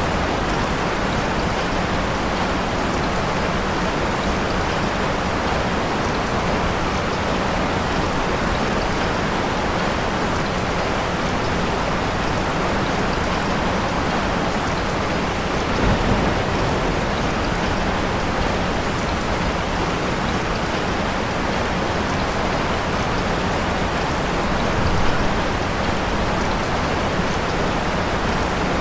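Steady heavy rain, an even hiss of drops falling. Two brief low swells break it, about halfway through and again near the end.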